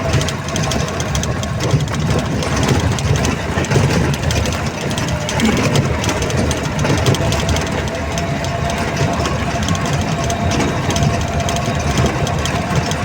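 Safari vehicle's engine running steadily as it drives, a low rumble with a faint steady whine above it.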